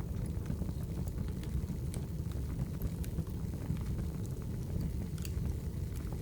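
Wood fire burning in a fireplace: a steady low rumble of flames with scattered crackles and small pops, one sharper pop about five seconds in.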